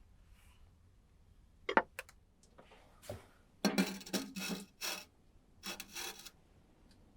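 A sharp knock, then two spells of rough scraping or rubbing, the first about a second and a half long and the second shorter.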